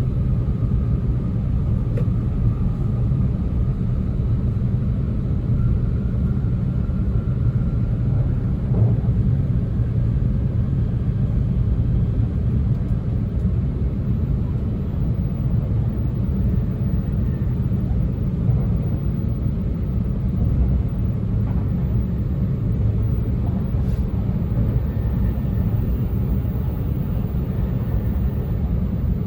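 Running noise inside a passenger car of a JR East E2 series 1000 Shinkansen: a steady low rumble of the train travelling along the line, with no change in speed or level.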